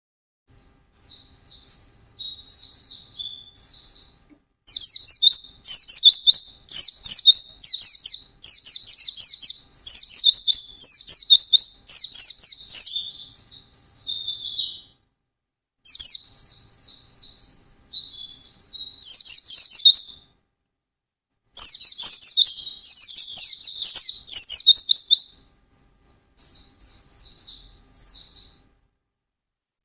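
White-eye (pleci) singing a fast, high-pitched twittering song of rapid trilled phrases in long runs, breaking off briefly twice.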